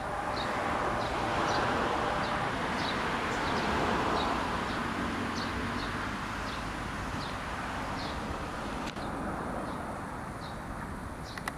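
Outdoor evening ambience after the chime: a bird gives short high chirps about every half second over a steady wash of distant noise that swells about four seconds in and then slowly fades, with two faint clicks near the end.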